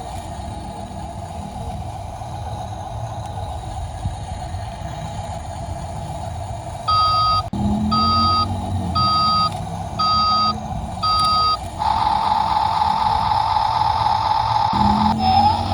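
Toy truck sounds: a steady motor hum with a low engine-like rumble, then five reversing beeps about a second apart, then a louder steady buzz from about twelve seconds in.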